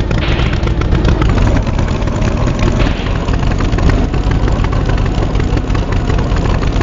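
A tractor engine running steadily, a loud low rumble with a rapid clatter.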